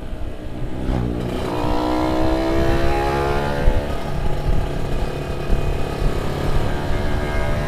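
Tuned two-stroke engine revving: about a second in, its pitch climbs steadily for two to three seconds, then holds at high revs.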